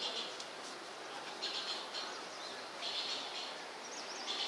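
A bird calling over and over, a short high call about every second and a half, with a brief twittering note near the end.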